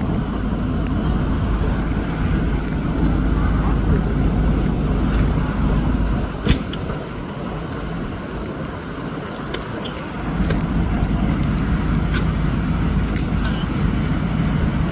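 Motor vehicle engine running with road and traffic noise, easing off for a few seconds in the middle before picking up again; a single sharp click about six and a half seconds in.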